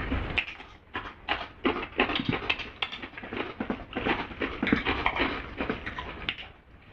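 Chewing and crunching on a spicy chicken leg piece: an irregular, quick run of short crunches and mouth noises that dies down near the end.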